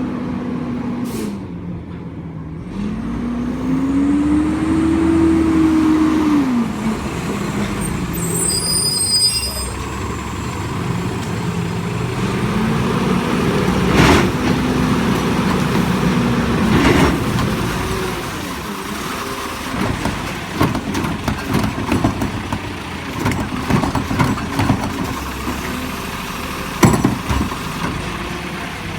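Recycling truck working at the curb: its diesel engine revs up and falls back twice, and there are several sharp metallic bangs in the second half.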